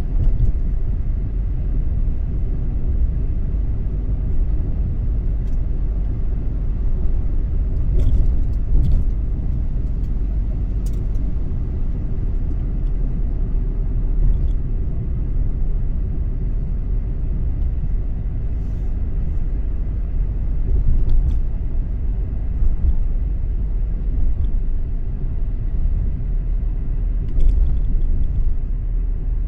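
A car driving, with a steady low rumble of road and engine noise and a few faint clicks.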